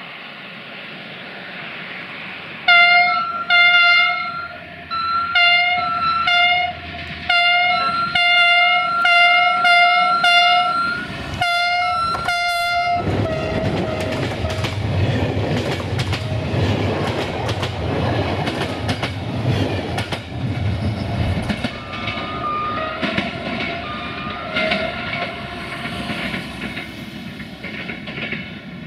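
CFR class 64 diesel locomotive sounding its horn in a long run of short toots, then passing close with its engine rumbling, followed by passenger coaches whose wheels click over the rail joints.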